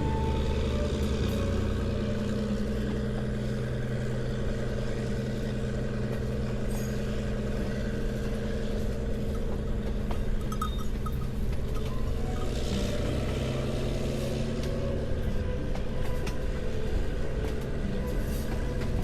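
A vehicle's engine running steadily, a constant low drone with road or rolling noise.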